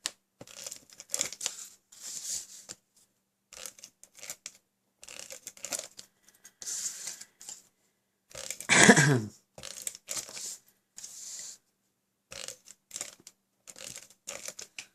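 Stampin' Up Fast Fuse adhesive applicator laying adhesive on cardstock, heard as short stop-start scrapes and paper rustles. One louder sound, falling in pitch, comes about nine seconds in.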